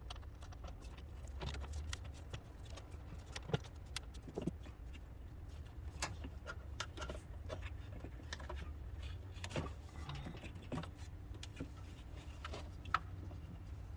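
Irregular light clicks, taps and clinks of metal tools and parts being handled, with a few louder knocks, over a steady low rumble.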